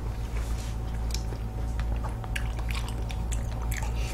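Two people chewing fresh figs: wet, squishy chewing and biting, with scattered short sharp clicks from the mouths.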